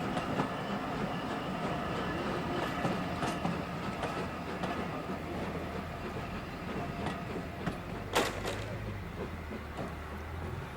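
A train rolling along the track, with faint clicks of wheels over rail joints and one sharper click about eight seconds in.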